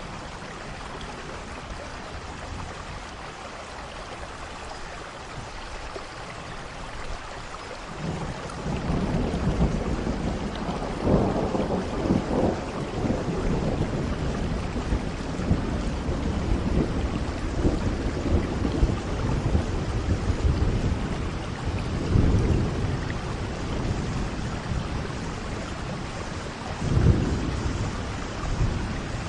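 Steady rain with thunder: a low rolling rumble sets in about eight seconds in and swells several times, loudest near the end.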